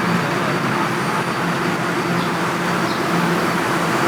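Steady mechanical hum of a train standing at a station platform, with a low drone and a faint high whine, unchanging throughout.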